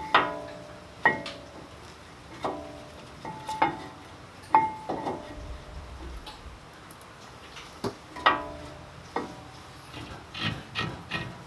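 Irregular metallic clinks and knocks of hand tools and brake parts being handled, about a dozen sharp strikes, some ringing briefly.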